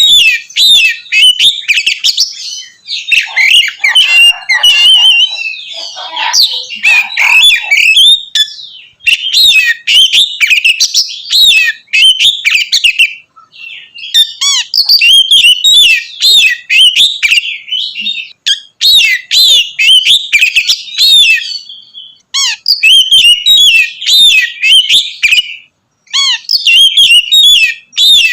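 Oriental magpie-robin (kacer) singing loudly in full voice: a fast, continuous run of varied whistled and chirped phrases, broken by a few brief pauses.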